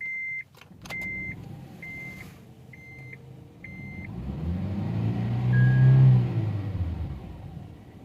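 Dashboard chime beeping five times about a second apart, with a couple of clicks, then the Honda Insight's 1.3-litre four-cylinder engine revving up to a peak about six seconds in and dropping back. It runs with its cylinder 2 misfire now cured by new spark plugs.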